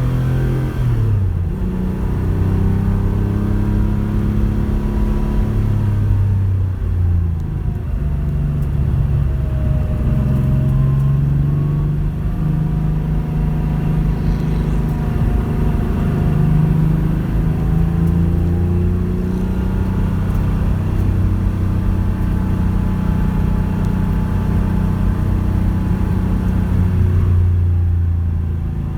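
Porsche 911 rally car's flat-six engine running under way, its note holding steady for stretches and shifting pitch up and down several times.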